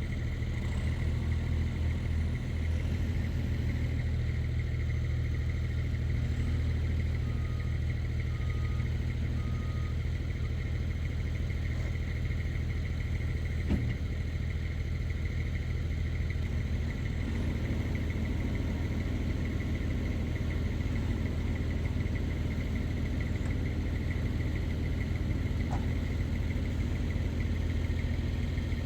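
Diesel engine of a 1999 Fermec TLK760 backhoe running steadily while the machine works a pile of fill dirt. Three short beeps come about a third of the way in, and a single knock about halfway through.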